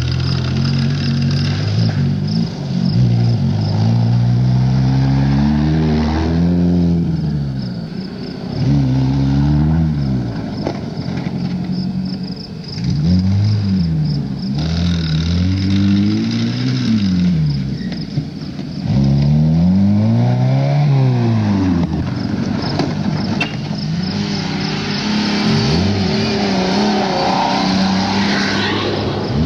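Car engine revved up and down again and again during a tyre-smoking burnout, its pitch climbing and falling in repeated sweeps a few seconds apart.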